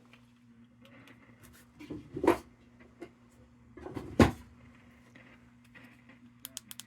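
Two sharp knocks about two seconds apart over a faint steady low hum, with a few light clicks near the end.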